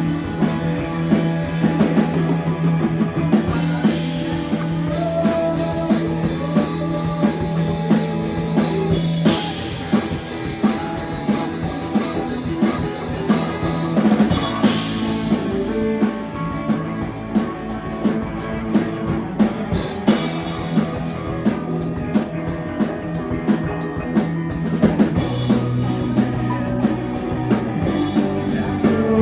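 Live rock band playing an instrumental passage: electric guitar and bass over a drum kit keeping a steady beat.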